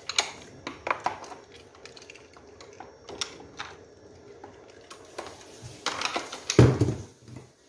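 Small hard clicks and clatter of die-cast toy cars being handled and set into a plastic display rack. The clicks are sparse at first, then about five seconds in comes a busier run of clatter and a heavier knock.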